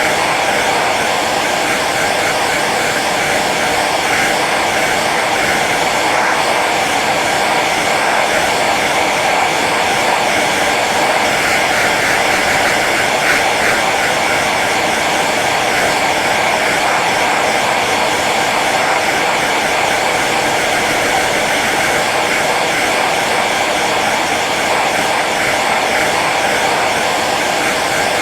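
Hair dryer running steadily on its low setting: a constant whir of motor and rushing air.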